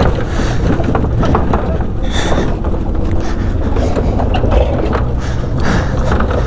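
Pickup truck driving slowly over rough off-road ground in low range: a steady low engine and drivetrain rumble with frequent knocks and rattles from the truck bed and body flexing.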